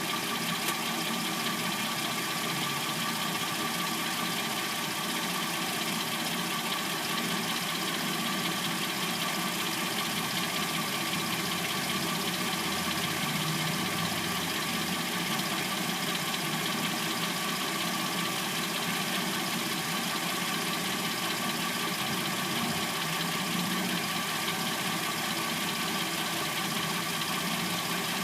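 Hyundai Sonata replacement engine idling steadily once warmed up. This is the stage at which it makes a little clackety noise that the owner assumes is the timing chain.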